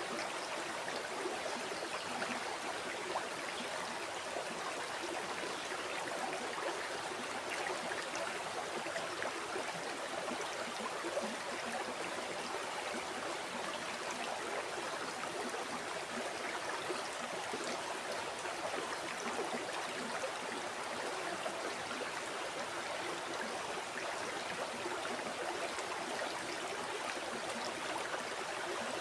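River water flowing steadily over rocks, a continuous rushing and burbling of moving water with small splashes flickering through it.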